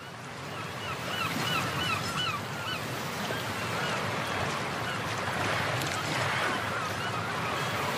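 Bird calls over a steady rushing noise that fades in during the first second: a quick run of about six short calls, each a rise and fall in pitch, about four a second, between one and three seconds in, then a few fainter calls later.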